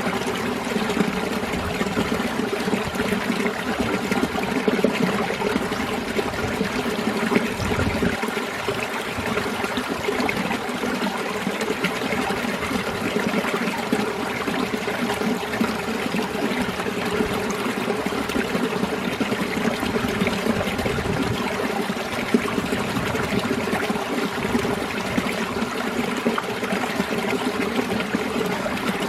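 Mountain stream water flowing and trickling steadily over rocks and ice in winter.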